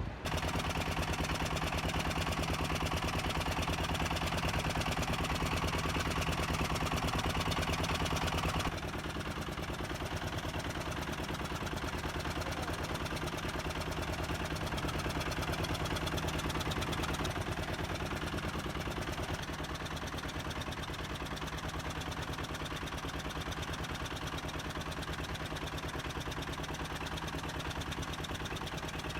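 Engine on a fishing boat idling steadily, a constant low hum with a fast even pulse; it becomes somewhat quieter about nine seconds in.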